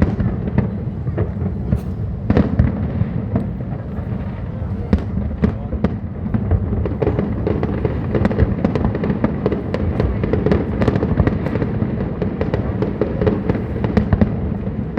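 Fireworks display: a rapid, unbroken stream of bangs and crackles over a low rumble.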